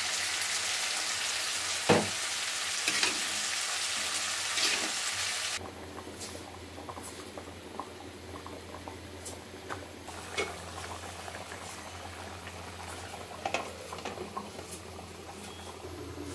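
Vegetables sizzling steadily in hot oil in a wok for about the first five seconds. The sound then cuts to a quieter thick curry simmering in its pot, with a low steady hum and scattered small clicks of a metal spoon against the pot.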